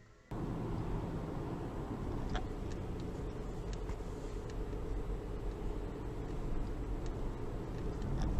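Steady engine and road noise of a vehicle driving, as picked up by a dashcam, cutting in abruptly just after the start, with a few faint ticks over it.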